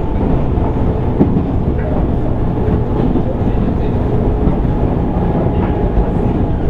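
JR East 205 series 600 subseries electric train heard from inside motor car MoHa 204-604 while running along the line: a steady rumble of wheels and running gear with faint steady tones and occasional clicks over the rail joints.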